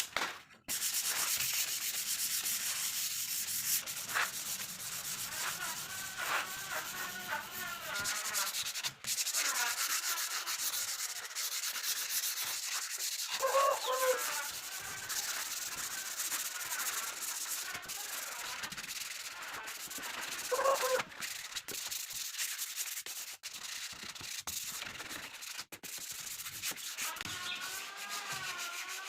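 Sanding of a wood surface: a steady, scratchy hiss of abrasive on wood that runs on with only brief breaks.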